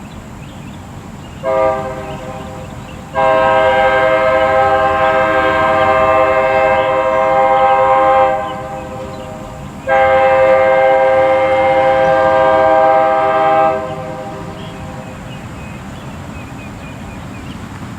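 Distant locomotive air horn, the Nathan K3LA five-chime on a CN SD60, sounding one short blast and then two long blasts of about four to five seconds each.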